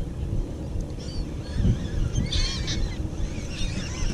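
A flock of seabirds working over a school of feeding fish, calling in short, repeated squawks that overlap, thickest about halfway through and again near the end. A steady low rumble runs underneath.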